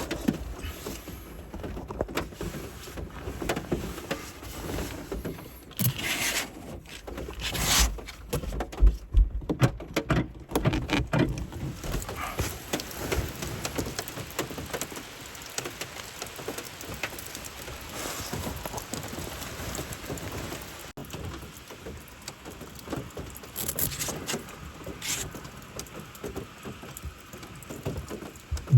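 Rain falling steadily, a dense patter of drops, with a few louder rustling knocks between about six and eleven seconds in.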